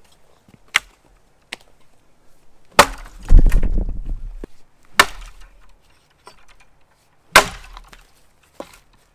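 An axe chopping into a tree trunk: three heavy strokes about two seconds apart, with lighter knocks before and after. The first heavy blow is followed by about a second and a half of low rumbling.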